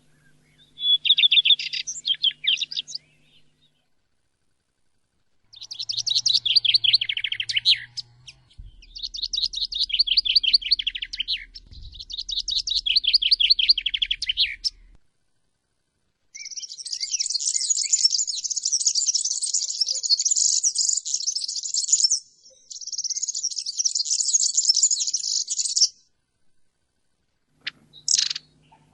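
Songbirds singing: a series of rapid, high trilled phrases lasting a few seconds each, with short gaps between them. A long, dense, buzzy trill fills the middle, and three short separate calls come near the end.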